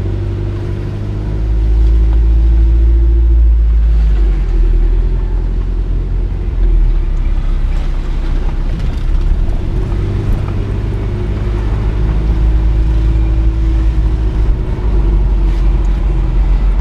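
Motor vehicle engine running while driving, with a heavy low road and wind rumble and the engine note rising briefly twice.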